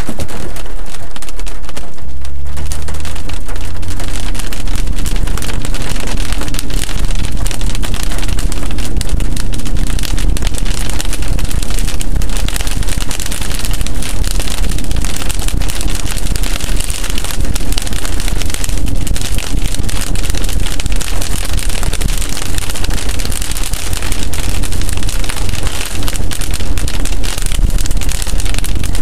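Rain pelting a car's windshield and roof in dense, fast ticks, heard from inside the car. About two seconds in, the low sound of the car's engine and tyres comes up under it as the car pulls away and speeds up.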